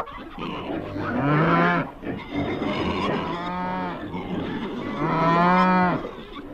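Cattle mooing: three long moos in a row.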